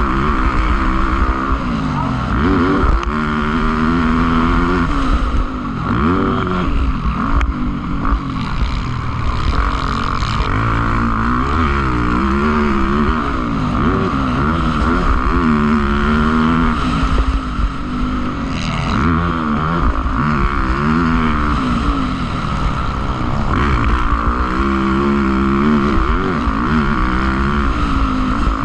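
Motocross motorcycle engines revving hard, their pitch climbing and dropping over and over as the bikes accelerate and shift around the track, with more than one bike heard at a time.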